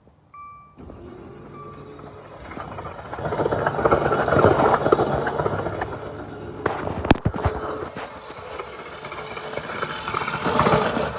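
Starter cranking the 2016 Dodge Dart's 2.4-litre four-cylinder with all its spark plugs removed, a steady, noisy spinning that swells louder twice, cranked as a test for a blown head gasket. A short beep sounds just before the cranking starts, and a sharp click comes partway through.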